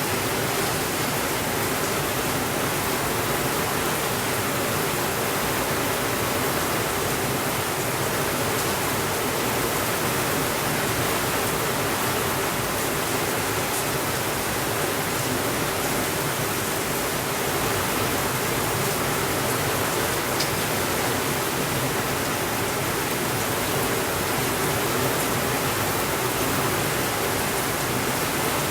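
Steady rainfall: an even, unbroken hiss, with a couple of faint ticks.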